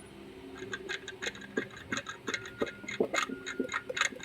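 Engine idling with an irregular clicking, knocking rattle, a few knocks a second over a steady low hum: the 'kelekok-kelekok' noise that the mechanic traces to a faulty water pump.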